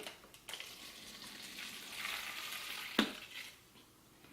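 Dechlorinated water being poured into a container: a steady splashing hiss for about two and a half seconds, ending in a single knock about three seconds in.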